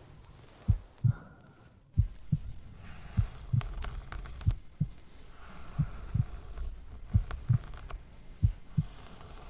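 Slow human heartbeat: paired lub-dub thumps, about one pair every second and a third. A soft hiss joins it about two seconds in.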